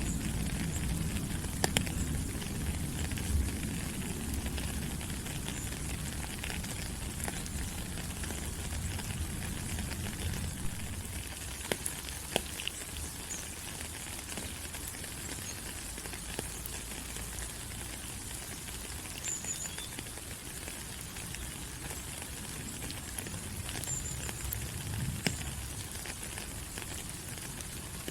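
Steady rain falling on rainforest leaves, an even hiss with scattered sharp drip taps. A low rumble underneath fades out about a third of the way through, and a few faint short high chirps come in the later part.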